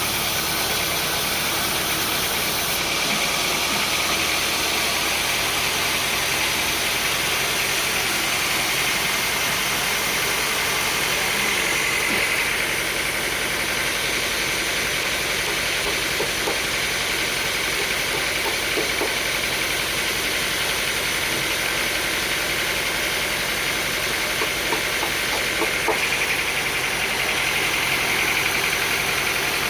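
Sawmill machinery running steadily: a continuous even mechanical noise with a faint high whine, and a few light knocks in the second half.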